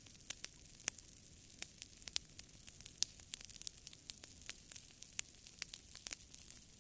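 Campfire crackling: irregular sharp pops and snaps, several a second, over a faint steady hiss.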